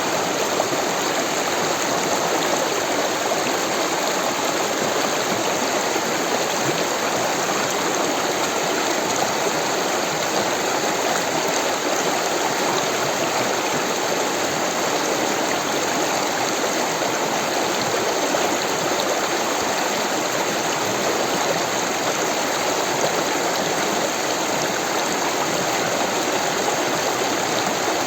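Rushing water of a stream, a steady, unbroken wash of noise with no changes.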